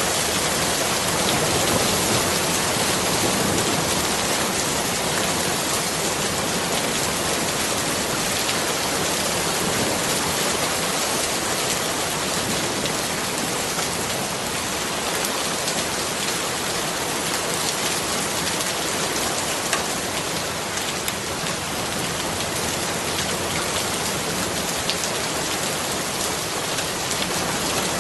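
Steady, heavy rain falling, a dense patter of drops hitting a surface without letup.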